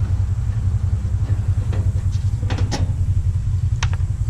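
Steady low rumble throughout, with a few light clicks and taps from handling the parts of a stainless steel coffee maker as it is taken apart.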